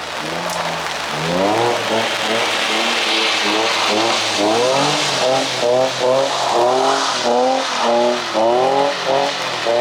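Car engine revving hard in repeated pulls while drifting, its pitch climbing and dropping about once a second as the throttle is worked, over a steady hiss of tyres spinning on wet pavement.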